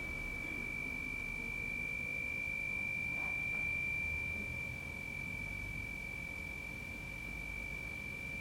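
A steady, high-pitched pure tone held at one pitch without change, over a faint low rumble.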